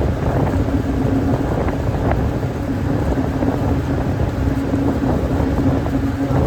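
Tour boat's engine running steadily with a constant low hum, mixed with wind rushing over the microphone as the boat cruises.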